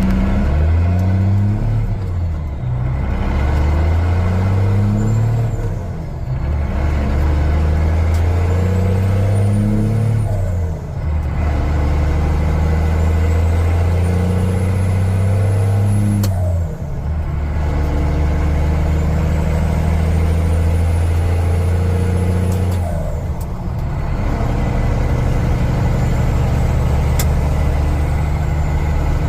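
Straight-piped 12-valve Cummins 5.9 diesel with a BD Super B turbo accelerating up through the gears: engine pitch climbs in each gear and drops at each of four shifts, with a high turbo whistle rising in each pull and cutting off at the shift.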